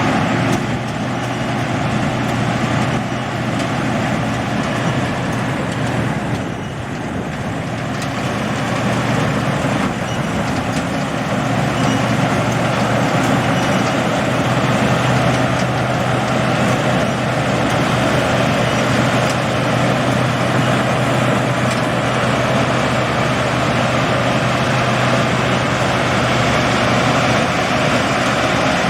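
Combine harvester running steadily: a constant, loud engine drone with a low hum and dense machine noise, easing briefly about six seconds in.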